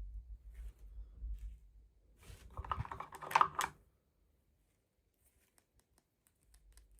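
Small plastic toy parts and packaging being handled for an unboxing: light clicks and rustling, with a louder burst of crinkling and clicking about two to four seconds in, then silence.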